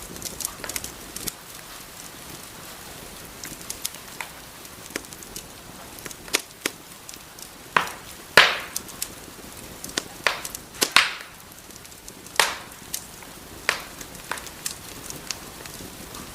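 Wood fire burning in a fireplace: a steady low hiss with irregular sharp crackles and pops, the biggest pops coming about halfway through.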